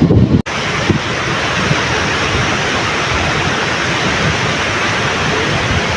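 Ocean surf washing steadily on a beach, with sea wind buffeting the microphone in the first half-second; a sudden cut just after that leaves a steady hiss of breaking waves.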